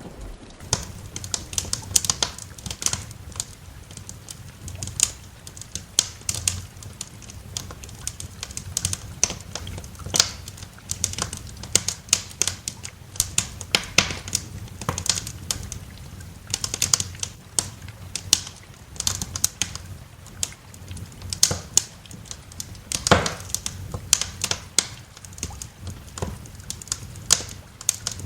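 Wood fire crackling in a fireplace: irregular sharp pops and snaps, one loudest pop about two-thirds of the way through, over a steady low rumble.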